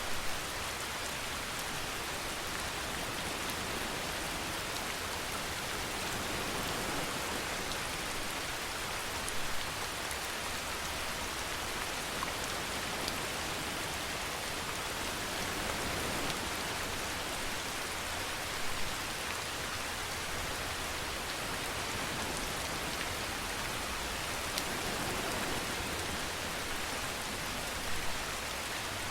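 Steady rain falling, with a few louder drop hits now and then.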